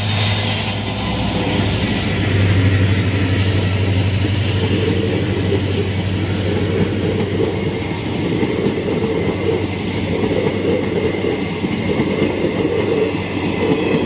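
Passenger train passing close by behind an Indian Railways WDP4D diesel locomotive, then its coaches rolling past. The noise of the wheels on the rails is loud and steady, with a strong low hum heaviest in the first few seconds as the locomotive goes by.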